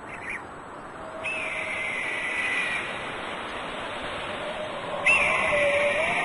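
A bird of prey's long whistled call, twice: each opens with a quick upward flick and then holds, slowly falling, for about a second and a half. A faint steady lower tone runs beneath.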